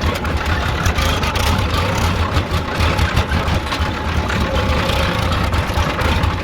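Tractor engine running steadily with a low, uneven throb.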